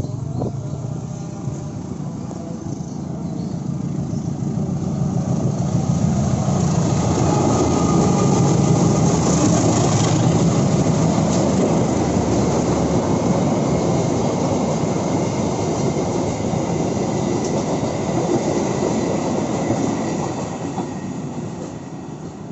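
Diesel-hauled passenger train (KA 449 Penataran) passing close by on the rails. It builds to its loudest about eight to twelve seconds in, then fades near the end as the last coach moves away.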